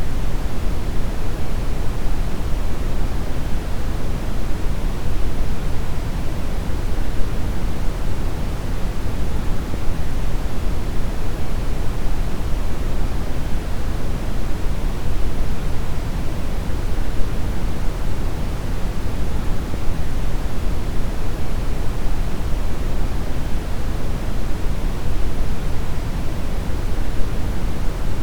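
Brown noise: a steady, even, deep rushing hiss, loudest in the low end and tapering off in the highs, with no change or events.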